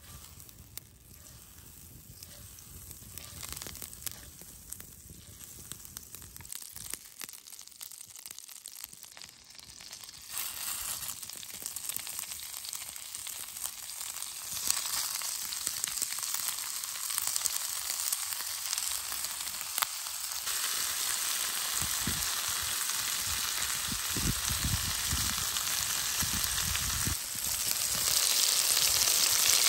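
Butter and bacon-wrapped chicken sizzling in a cast-iron skillet. The frying starts faint while the butter melts, then grows steadily louder as the bacon-wrapped pieces are laid into the hot fat.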